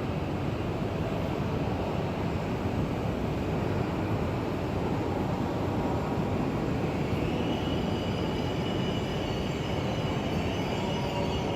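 Shinkansen bullet train running with a steady low rumble; a faint high whine joins in about seven seconds in.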